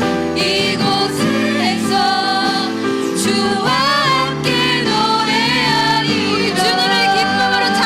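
Live Christian worship song: a woman singing with vibrato over sustained band accompaniment.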